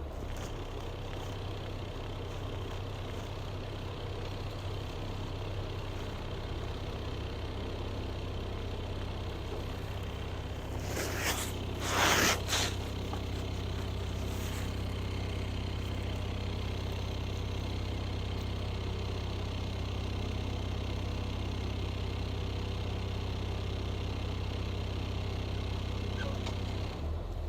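A vehicle engine running at a steady low hum, with a brief loud rush of noise a little under halfway through.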